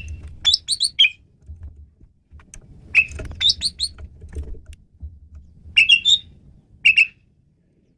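Asian pied starling (jalak suren) singing: three short bursts of sharp, high whistled and chattering notes, the first right at the start, the next about three seconds in, the last about six seconds in, over a faint low rumble.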